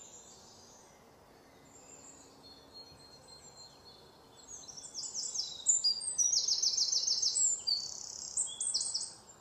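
Woodland birds singing high chirping notes, faint at first. About halfway in comes a loud, rapid run of repeated notes.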